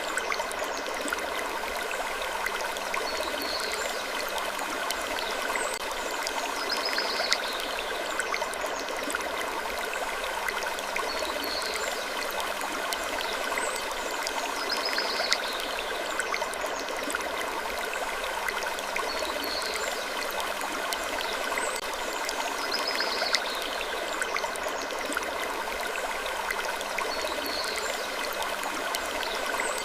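Wood creaking in short, falling creaks that recur every few seconds, over a steady rushing hiss.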